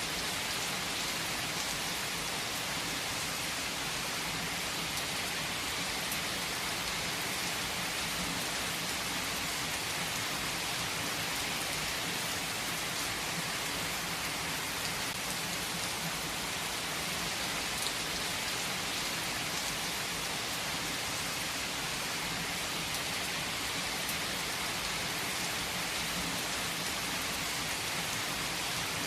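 Heavy rain falling steadily, drops pattering on surfaces in an even, unbroken hiss.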